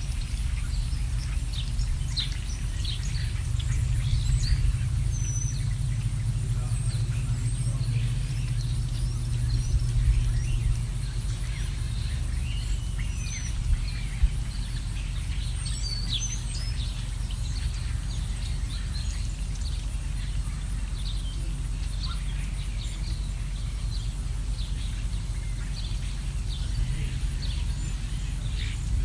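Several wild birds chirping, short calls and quick up-and-down notes scattered all through, over a steady low rumble.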